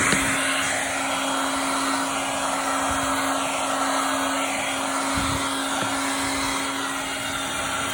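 Handheld electric blower running with a steady motor hum and rush of air, switched off right at the end so its pitch falls away.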